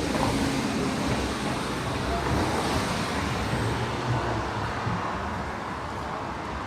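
Downtown street traffic: vehicles running past with a steady rumble and road noise.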